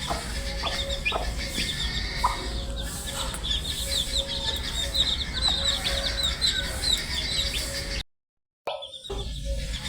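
Baby chicks peeping continuously: many short, high, falling peeps overlapping one another, over a low steady hum. Near the end the sound cuts out completely for about half a second, then carries on.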